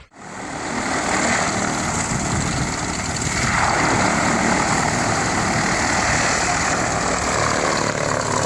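Aircraft engines running with a steady rushing noise that turns brighter about three and a half seconds in.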